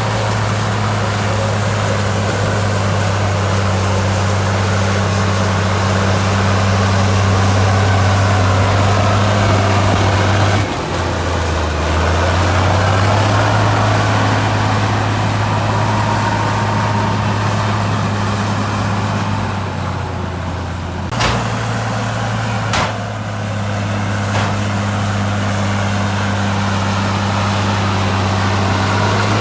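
Heavy diesel engine of an earthmoving machine running steadily, its pitch shifting abruptly twice, with a few sharp knocks about two-thirds of the way through.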